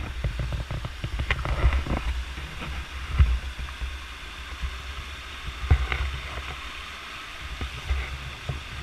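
Steady rush of a roadside waterfall, with wind buffeting the microphone in uneven low gusts and a few scattered knocks of handling.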